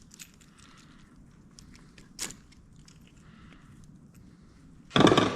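Small clicks and light handling noise of hand work on electrical wiring, with one sharper click about two seconds in, then a short loud noise near the end.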